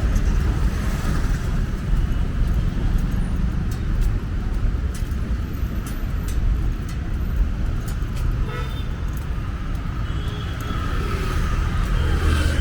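City street traffic: a steady low rumble of passing cars and other motor vehicles.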